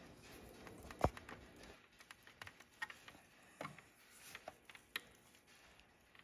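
Faint, scattered clicks and taps of small plastic grille clips being worked loose from a truck's grille, with one sharper knock about a second in.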